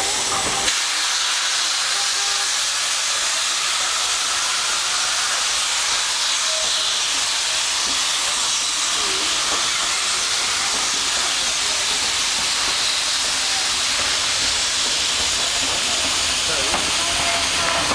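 Steam locomotive letting off steam: a steady, even hiss that holds at one level throughout.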